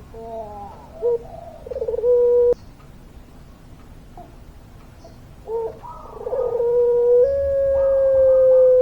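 Puter pelung, a long-voiced breed of domestic barbary dove, cooing: two calls, each a short wavering part ending in a long held note. The first call ends abruptly about two and a half seconds in; after a pause the second call's long note is held for a couple of seconds and slowly sinks.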